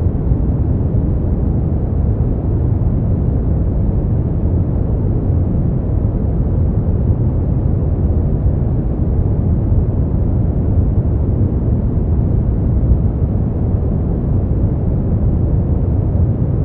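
Brown noise: a steady, deep rushing hiss, heaviest in the bass and dull at the top, with no change in level or character.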